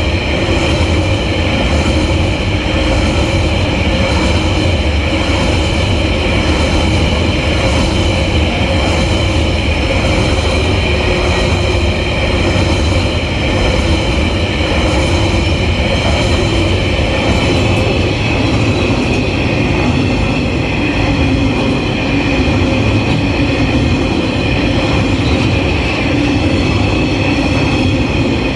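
A long freight train's wagons rolling past: a steady loud rumble and rattle of wheels on rail, with thin high steady tones above it.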